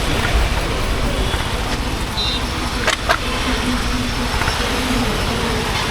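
Honda H'Ness CB350's single-cylinder engine running steadily under way, heard through road and wind noise, with two sharp clicks close together about three seconds in.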